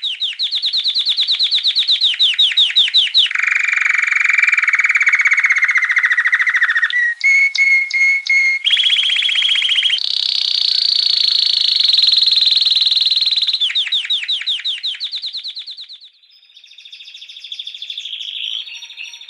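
Domestic canary singing a long song of rapid trills. It switches to a new repeated phrase every few seconds, some high and fast, one lower and buzzy, one of a few separate notes. The song dips about sixteen seconds in, then goes on more softly.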